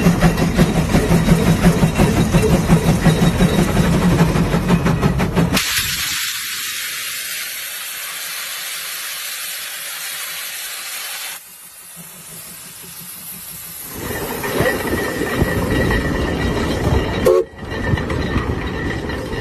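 Case 150 steam traction engine working, its exhaust beating rhythmically. About five seconds in, the beat gives way to a loud, steady hiss of escaping steam. The engine's beat returns near the end.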